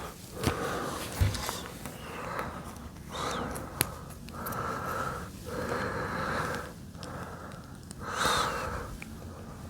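A person breathing heavily through the nose close to the microphone, a noisy in-and-out about once a second, with a few sharp clicks of plastic LEGO pieces being handled.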